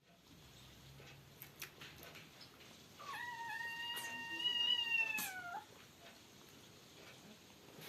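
A kitten gives one long, high meow about three seconds in. It lasts over two seconds and drops in pitch at the end, with a few faint clicks around it.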